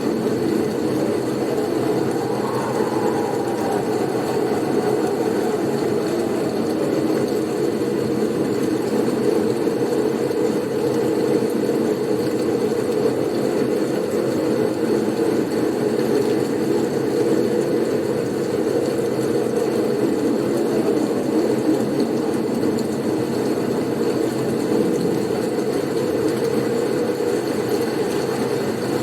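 Blizzard wind rushing with a steady low rumble, with a faint whistle rising and falling about two to three seconds in.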